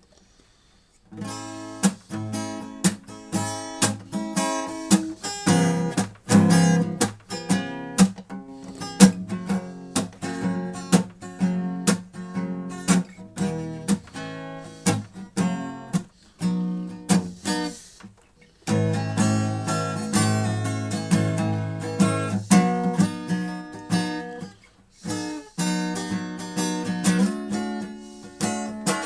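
Instrumental music on a plucked string instrument, notes picked one after another with sharp attacks. There is a short silence just at the start and a brief pause about two-thirds of the way through.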